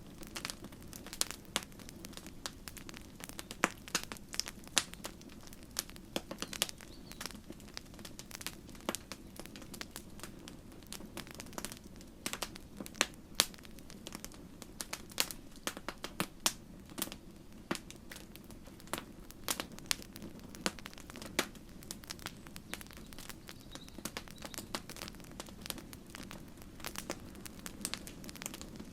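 Campfire burning: wood crackling and popping in many irregular sharp snaps over a steady low rush of the flames.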